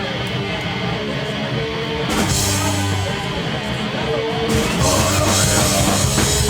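Live rock band starting a song: electric guitar first, cymbals joining about two seconds in, then the full band with drums near the end.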